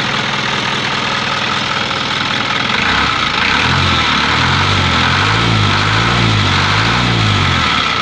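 Isuzu 4HF1 four-cylinder diesel engine idling steadily. From about three seconds in until near the end, a low throbbing in the engine note wavers up and down.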